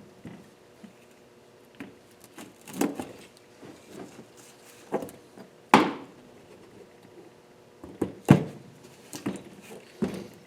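Intermittent knocks, taps and clinks of small metal engine parts being handled and worked out of a cylinder head, about half a dozen separate strikes with the sharpest near the middle.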